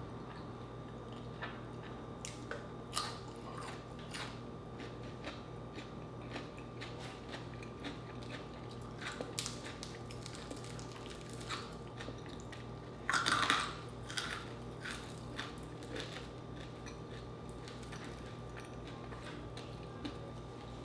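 Close-miked chewing and crunching of food, with scattered irregular crunches and a louder burst of crunching about thirteen seconds in. A faint steady hum runs underneath.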